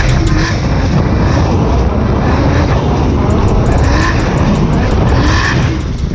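Drift car's engine revving up and down repeatedly under hard driving, over continuous tyre and road noise.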